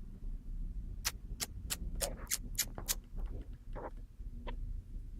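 A quick series of sharp clicks or ticks, about three or four a second, over a steady low hum.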